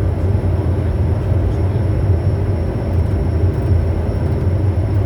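Bombardier Challenger 350 business jet on approach: a steady low rumble of its two Honeywell HTF7350 turbofans and airflow, with a faint steady high whine.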